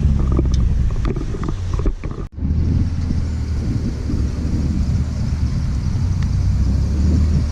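Steady low rumble of a car's engine and road noise heard from inside the cabin while driving, broken by a brief dropout about two seconds in.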